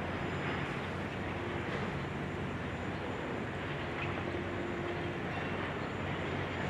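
Steady low engine rumble with a faint hum, with no distinct crashes or impacts.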